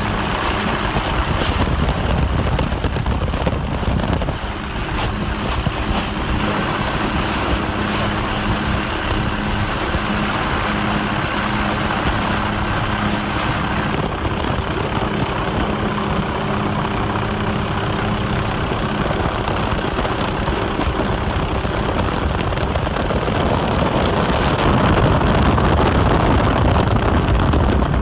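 Steady drone of an aircraft engine with a wash of rushing noise, growing a little louder near the end.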